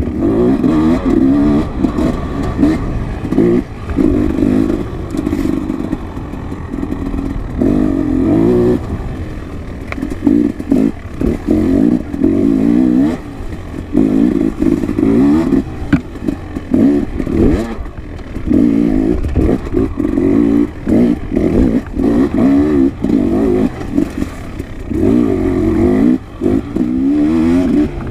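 Dirt bike engine being ridden, revving up and easing off over and over in short surges every second or two, with some clattering and scraping.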